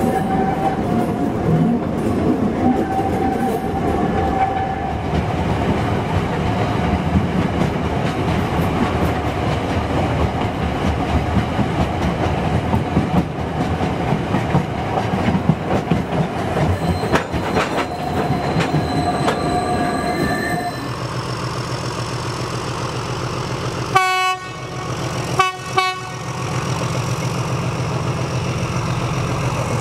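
Train running along the track, heard from on board, with the clatter of wheels over rail joints and a steady wheel squeal at times. About two-thirds of the way through it gives way to a railcar's engine running steadily, with two short horn toots near the end.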